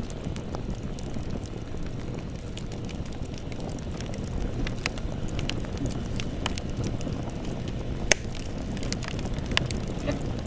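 Campfire burning with a steady low rumble of flames and scattered crackles and pops of burning wood, one sharp crack about eight seconds in.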